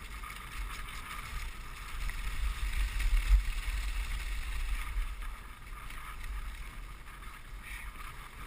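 Dog sled gliding along a snow trail: a steady hiss of runners on snow, with wind buffeting the microphone in a low rumble that is strongest a few seconds in.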